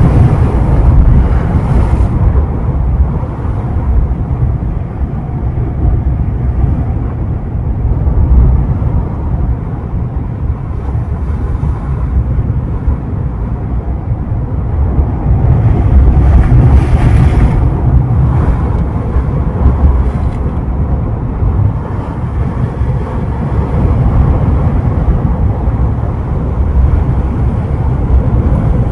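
Ocean surf breaking on the beach: a steady low rumble of waves, with a wave crashing in a wash of hiss about halfway through.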